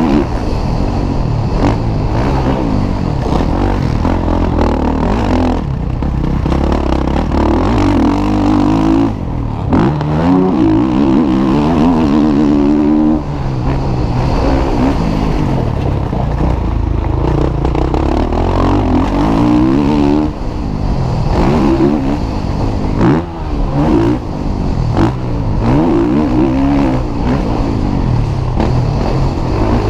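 Motocross bikes racing, their engines revving up and dropping back again and again as the riders work the throttle.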